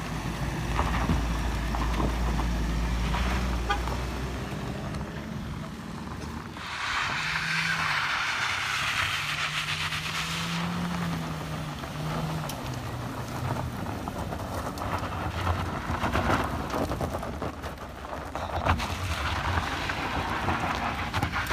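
Car engines labouring up a steep dirt-and-gravel slope. A deep low rumble comes first as a Mitsubishi Pajero Sport SUV climbs. Around the middle an engine note rises and falls under a rushing noise, and near the end a front-wheel-drive Toyota MPV is climbing.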